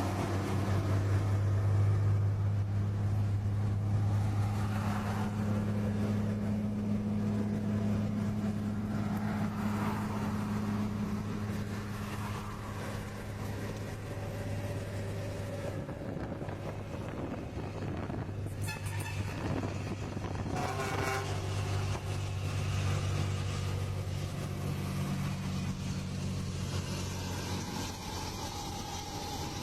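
A heavy vehicle's engine running with a steady low drone that shifts in pitch partway through, with brief louder noisy passages near the two-thirds mark.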